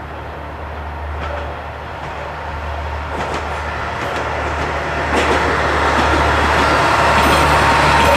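Isumi 200' class diesel railcar train approaching, its engine drone growing steadily louder, with a few clicks of wheels over the rails and a thin high tone coming in near the end.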